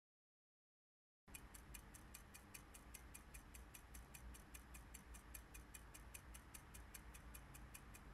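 Dead silence, then about a second in a clock starts ticking quickly and evenly, about five ticks a second, quietly over a low steady room hum.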